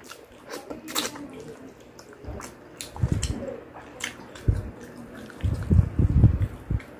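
Close-miked wet eating sounds from chewing fried chicken: sharp mouth clicks and smacks, with several low thuds in the second half.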